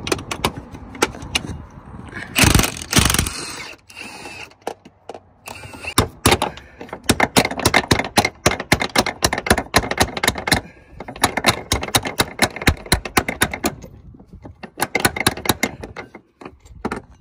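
Rapid metallic clicking and clattering from tools working on metal parts of a truck, in dense runs of sharp knocks with a few pauses.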